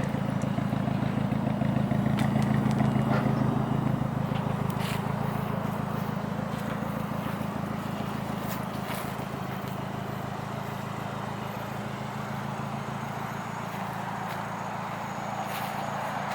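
A car engine idling steadily, a little louder in the first few seconds and then slowly fading.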